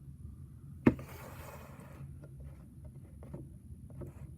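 A plastic action figure being handled and posed: a sharp knock about a second in, then a brief rustle and a few faint light clicks.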